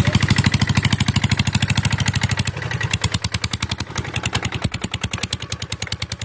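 Kubota ZT150 single-cylinder diesel two-wheel tractor engine running steadily under plowing load, a fast even putter of about a dozen firing beats a second. It gets a little quieter after about two and a half seconds.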